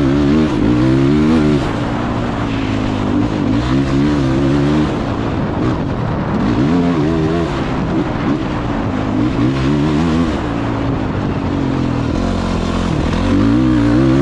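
Motocross dirt bike engine ridden hard around a track, revving up and dropping back several times as the rider works the throttle, with wind rushing over the microphone.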